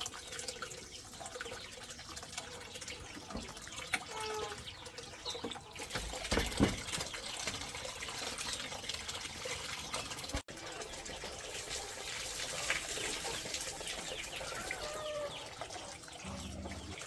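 Water running and splashing steadily, with small clicks and knocks.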